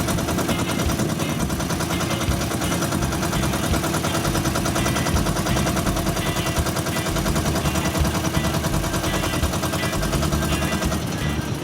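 Boat engine running steadily with a fast, even pulsing exhaust.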